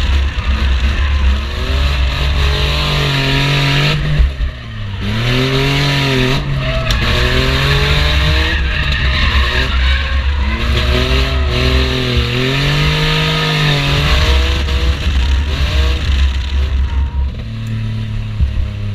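Infiniti G35's V6 engine revving up and down hard through a drift, with tyres squealing. The revs drop sharply about four seconds in, then climb again and swing repeatedly.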